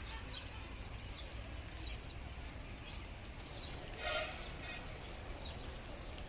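Birds chirping with many short scattered calls over a steady low background rumble, with one louder, fuller call about four seconds in.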